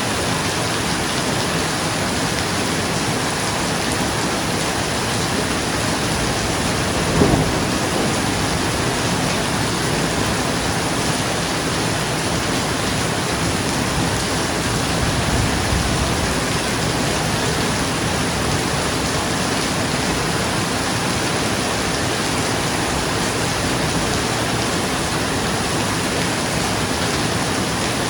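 Steady rain on a roof, with a short sharp clap of thunder about seven seconds in and a lower, softer rumble of thunder about halfway through.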